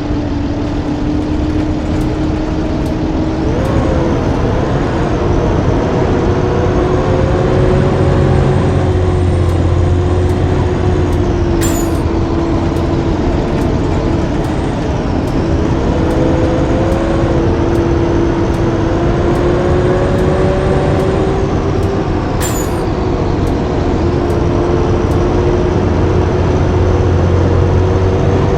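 Blue Bird D3FE bus running on the road: a steady heavy engine rumble with a whining tone that drifts up and down in pitch as the speed changes. Two sharp clicks come partway through.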